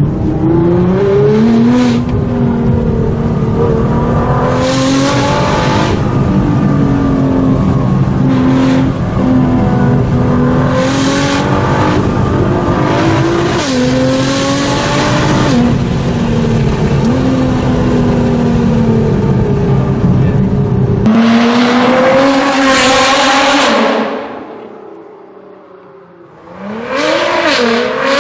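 Nissan GT-R R35's twin-turbo V6 running through an Armytrix valved exhaust, the revs rising and falling several times. Near the end the sound drops away for a couple of seconds before the revs climb again.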